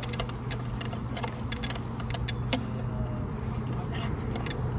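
A steady low hum with scattered sharp clicks and knocks.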